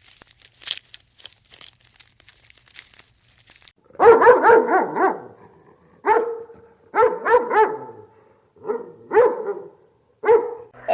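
A dog barking in short bouts, a quick run of barks about four seconds in and then pairs and threes with short gaps. Faint crackling comes before the barking starts.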